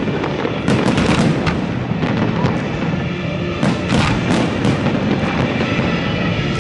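Fireworks going off in rapid volleys of sharp bangs and crackles over a continuous dense rumble. The bangs come thickest about a second in and again in the middle.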